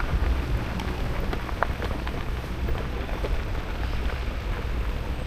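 Wind buffeting the camera microphone of a moving e-bike, a steady low rumble over tyre and road noise, with scattered small ticks and rattles.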